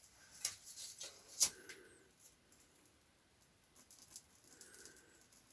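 Matches and matchbox handled to light a fire: faint rattling and a few sharp clicks, with a sharp strike about a second and a half in that flares briefly.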